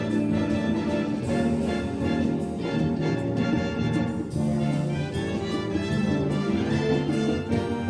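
Brass band playing an instrumental passage of a song without singing, with held chords.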